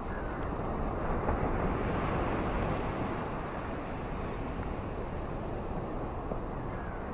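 Steady rain with wind, a dense even hiss that swells slightly between about one and three seconds in.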